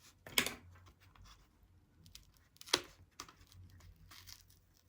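Paper craft pieces being handled, with faint rustles and two short, louder crinkling sounds, about half a second in and just under three seconds in.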